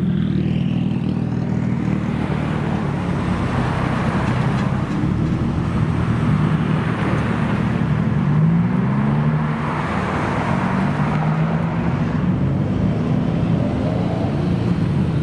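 Modified car engines running as cars drive past, the engine pitch rising and falling with the throttle over a steady noise of passing traffic.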